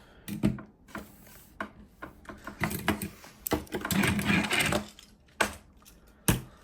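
Plastic toy figures being handled and set down on a table: scattered clicks and knocks, with a longer stretch of clattering about four seconds in.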